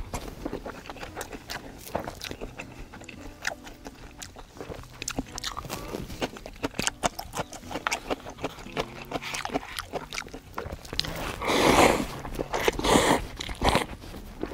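Close-up chewing of yukgaejang cup noodles: a long run of small irregular mouth clicks, with two louder noisy bursts near the end.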